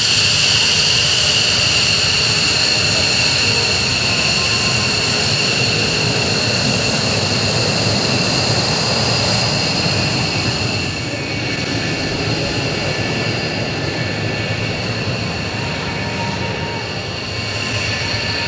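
Jet aircraft engines running with a steady high-pitched whine over a loud rush, easing off slightly about eleven seconds in.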